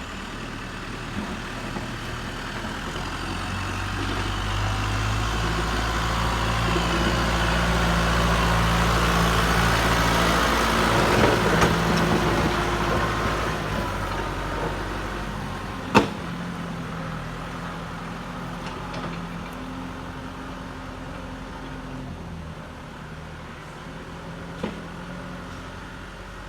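Heavy vehicle engine running steadily, growing louder to a peak about halfway and then fading as it works past. A single sharp knock about two-thirds of the way through is the loudest moment, with a smaller one near the end.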